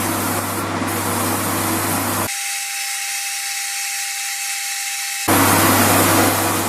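An electric power tool motor running steadily, in spliced segments. A fuller sound with a deep hum gives way about two seconds in to a thinner, higher whine, and the first sound returns near the end, louder.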